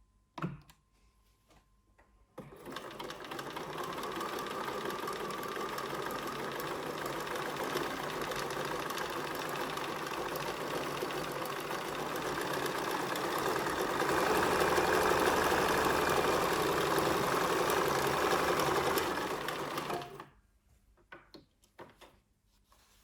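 Bernina 1230 sewing machine running: motor and needle mechanism whirring steadily for about eighteen seconds. It picks up and runs louder for the last several seconds, then stops abruptly.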